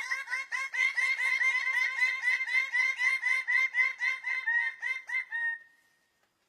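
A bird giving a fast, even run of short repeated calls, about five or six a second, which stops after about five and a half seconds.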